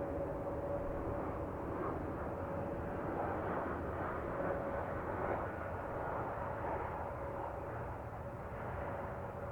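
Jet engines of an ANA Boeing 787-8 airliner on a takeoff: a steady roar with a constant whine, slowly growing fainter.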